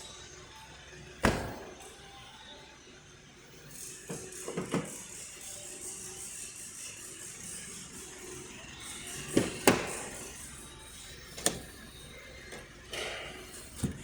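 Several sharp knocks and clunks at irregular intervals, two of them close together about two-thirds of the way through, over a low background hum.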